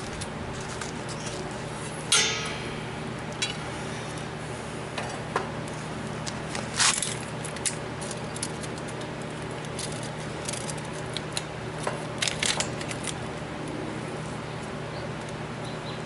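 Scattered sharp metallic clicks and clanks of hand tools and go-kart parts being handled, the loudest about two seconds in ringing briefly, with a cluster near twelve seconds, over a steady background hum.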